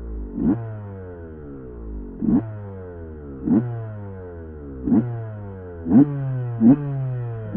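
Dirt bike engine being blipped: each throttle stab is followed by the revs falling away, over a steady idle, the blips coming closer together towards the end.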